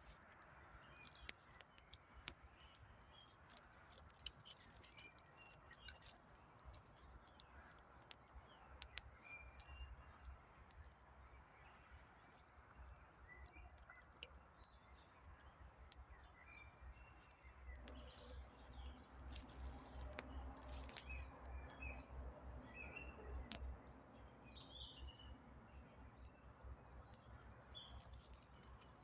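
Wood campfire crackling faintly with many sharp snaps and pops, while small birds chirp and call around it. A low rush swells for several seconds past the middle.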